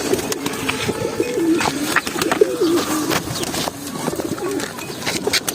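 Domestic pigeons cooing, several low wavering coos that overlap, with scattered sharp clicks of beaks pecking at grit.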